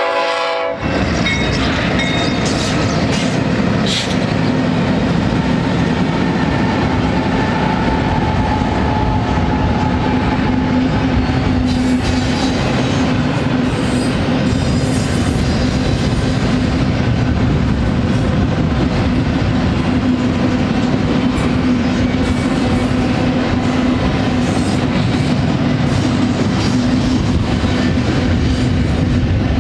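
A double-stack intermodal freight train rolling past close by: a steady rumble and clatter of wheels on rail, with a steady low hum under it. A train horn chord cuts off just under a second in.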